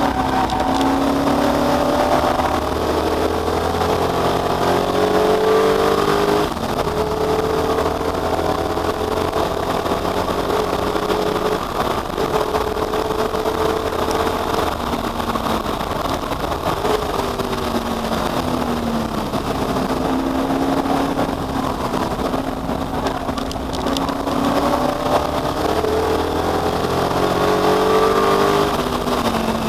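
V8 race car engine at high revs, its pitch climbing through each gear and dropping at each shift or lift, several times over.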